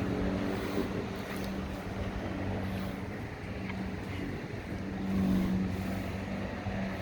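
Steady low drone of a distant engine, swelling briefly about five seconds in, with light wind on the microphone.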